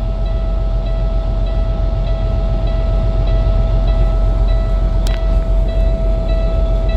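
Peterbilt truck's low air pressure warning buzzer sounding as one steady tone over the idling diesel engine, the air system still building pressure after a cold start. A fainter repeating beep joins from about three seconds in, and there is a single click near five seconds.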